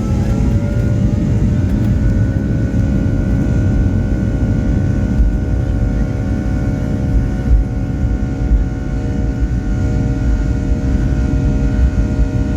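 Boeing 757-200 jet engines heard from inside the cabin. A heavy low rumble runs under a whine that rises in the first couple of seconds and then holds steady.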